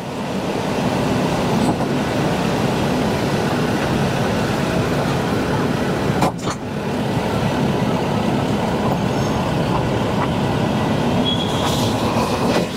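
Diesel-hauled Darjeeling Himalayan Railway toy train running on its 610 mm narrow-gauge track, a steady rumble of the moving train. There is a short high squeal near the end.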